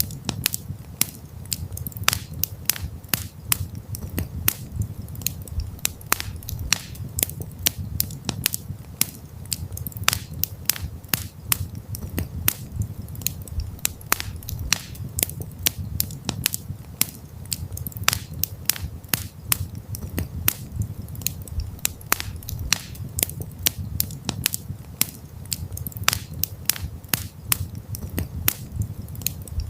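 Campfire crackling: a dense, irregular run of sharp snaps and pops over a steady low rumble.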